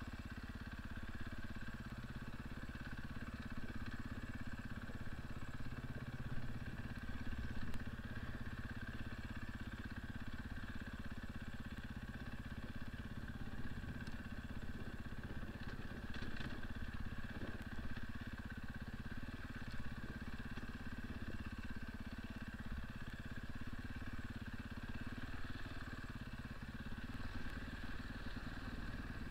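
Husaberg 450 FE enduro motorcycle's single-cylinder four-stroke engine running steadily as the bike is ridden along a dirt trail, heard from the rider's position, with a few brief knocks from the bike over rough ground.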